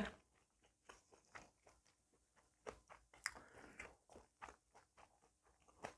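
Faint chewing of spicy green onion kimchi: scattered soft crunches and wet mouth clicks.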